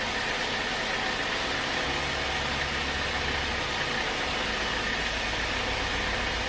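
Sawmill machinery running steadily, a constant mechanical drone with a high steady whine.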